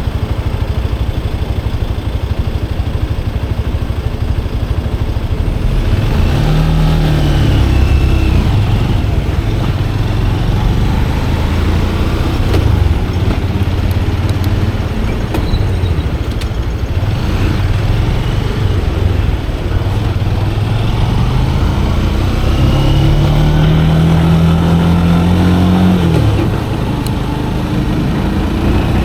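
Motorcycle engine running under a steady rush of road and wind noise. It revs up and falls back about six seconds in, then climbs steadily again from about 22 seconds and drops off sharply at about 26 seconds.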